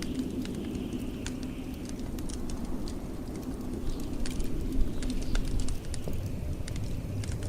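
Wood fire crackling with frequent sharp pops and snaps over the steady low rumble of blizzard wind, with a faint high whistle of wind that swells and fades.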